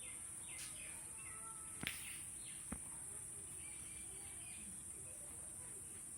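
Outdoor ambience: faint, scattered short bird chirps over a steady high-pitched hiss, with two sharp clicks about two seconds in and again almost a second later.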